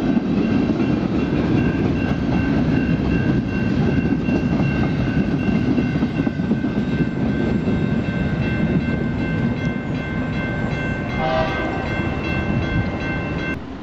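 Double-stack intermodal freight train rolling by with a steady rumble of wheels and cars. Over it a grade-crossing warning bell rings steadily and stops near the end as the gates go up.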